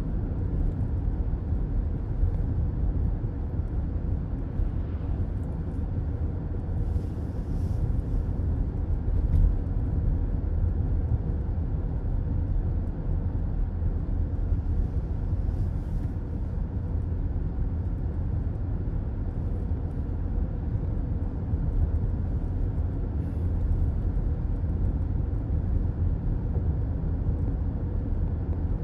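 Steady road noise of a car cruising on a highway, heard from inside the cabin: a low, even rumble of tyres and engine.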